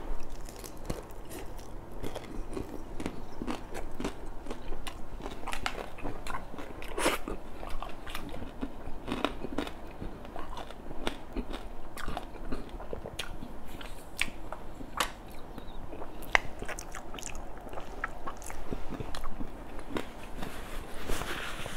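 A person chewing a mouthful of fried red tilapia close to a clip-on microphone: irregular wet mouth clicks and smacks throughout.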